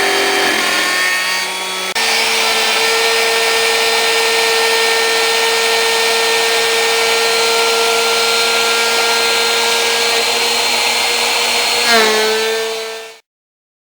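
Home-built CNC router's spindle whining steadily while milling aluminium, with a hiss of cutting noise over the whine. The sound jumps abruptly about two seconds in and cuts off suddenly near the end.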